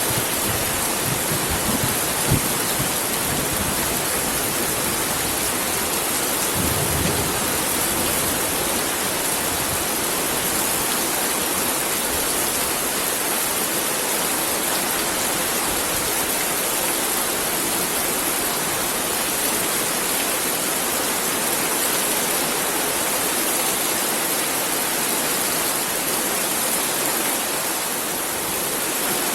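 Heavy rain falling, a steady even hiss. A few low thumps come in the first few seconds and once more about seven seconds in.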